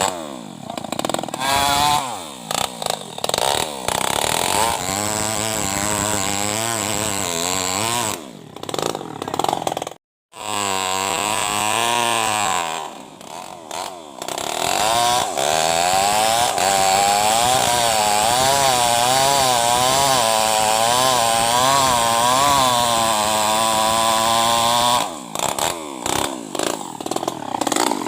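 New West 588 two-stroke chainsaw, tuned up, running at high revs with its pitch wavering up and down as the load changes. The sound drops off and picks up again several times, and cuts out completely for a moment once.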